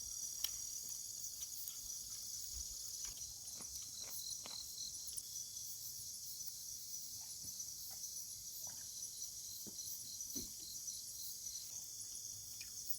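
Insect chorus: a steady high, shrill buzz with a faint regular pulsing along it, and a few scattered small clicks.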